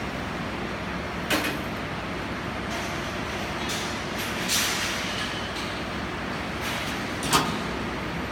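Steady workshop noise with three short knocks or clanks: one about a second in, one midway, one near the end.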